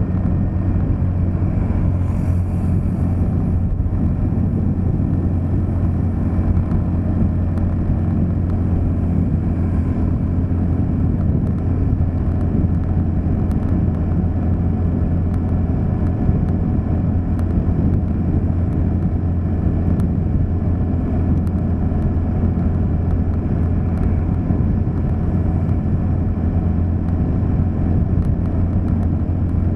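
Motor vehicle driving along a road, heard as a steady, unchanging engine hum and low road rumble.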